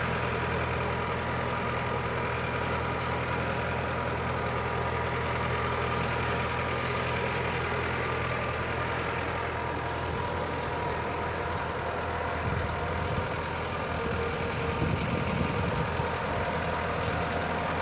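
Mitsubishi tractor's engine running steadily while cultivating a bean field, its tone growing rougher with uneven low rumbling and a few bumps in the second half.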